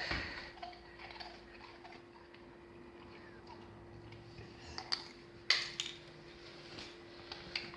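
A few scattered sharp clicks and taps, the loudest about five and a half seconds in, over a faint steady hum.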